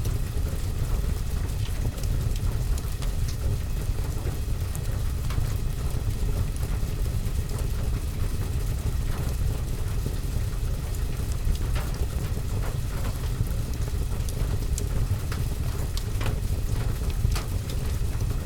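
Steady rain mixed with a fireplace: a continuous low rumble and hiss of rain, with scattered sharp crackles.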